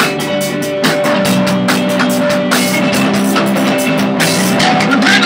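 Rock band playing a song at rehearsal: a drum kit keeps a steady beat under held electric guitar chords.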